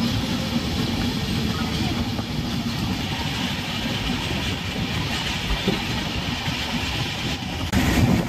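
Steady rumble of a passenger train running on the rails, heard from on board, with a jump in loudness near the end.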